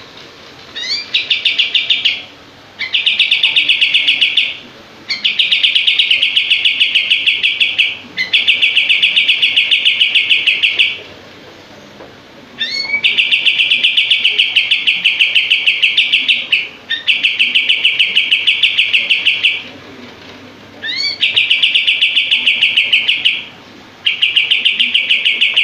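A kapas tembak songbird singing in repeated bursts of very fast, tightly packed chattering notes. Each burst opens with a quick rising note and lasts one to three seconds, about eight times with short pauses between.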